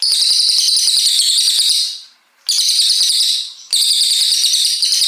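Brown cililin songbird singing long, rapid, high-pitched trilling phrases. The runs break off briefly about two seconds in and again about a second and a half later.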